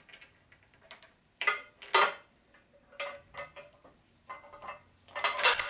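Sharp metallic clicks and clinks of small metal parts being handled and set against each other, a few separate strikes, then a louder, longer scraping clatter near the end.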